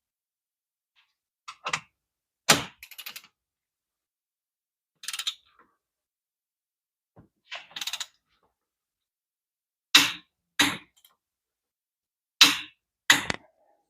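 Metal hand tools and parts being handled: about nine separate short clanks and clicks a second or two apart, a couple followed by a brief rattle. The loudest come about two and a half seconds in, at about ten seconds, and near the end.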